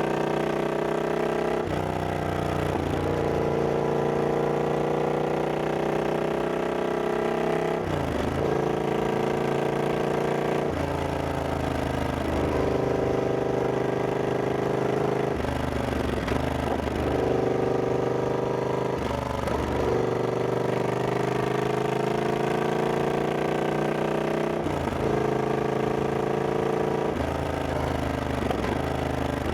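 Triumph Scrambler 1200X's parallel-twin engine under way, its note rising under acceleration and dropping back sharply about eight times.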